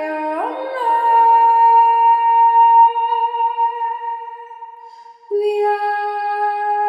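A woman's voice singing long wordless held tones: it glides up into a note held for several seconds, then starts a new, slightly lower note about five seconds in.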